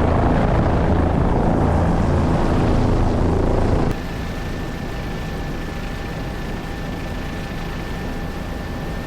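Helicopter running in flight: a steady, loud rotor and engine noise. About four seconds in, it cuts abruptly to a quieter steady helicopter noise with a thin, high, steady whine.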